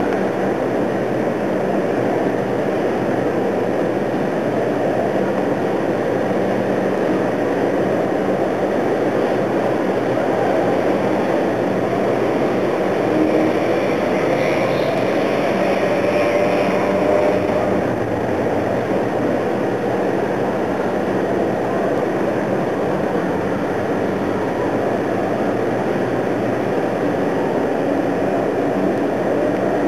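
Steady mechanical drone of engines, swelling slightly with a faint whine about halfway through.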